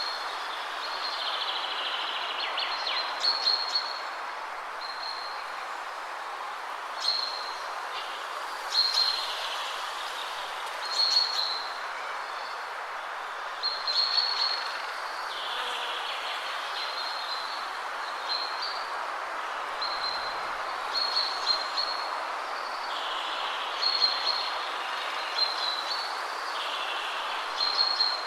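Wind rushing steadily through trees, with small birds singing short, high chirps and brief falling notes every second or two.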